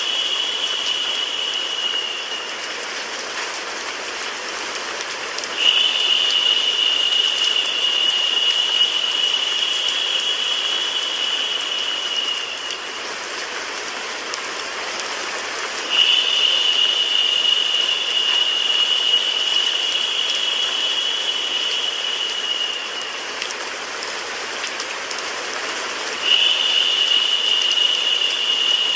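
Rain sound mixed with white noise, a steady hiss. Over it a high tone comes and goes about every ten seconds, each time lasting about seven seconds and dipping slightly in pitch.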